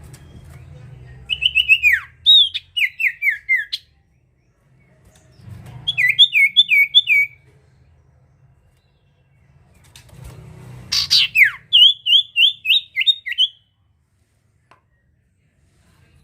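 A sirtu (cipoh, common iora) singing: three loud phrases, each a quick run of repeated down-slurred whistled notes, a few seconds apart, over a faint low hum.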